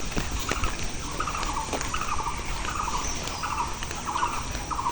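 A run of short, rapid rattling animal calls, repeating about every half second at a steady level.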